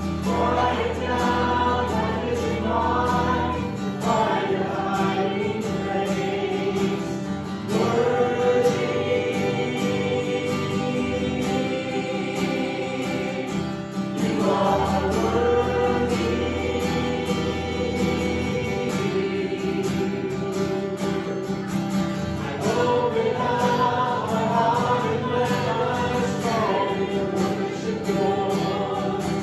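Congregational worship music: a group of voices singing a slow song over a steady band accompaniment with guitar.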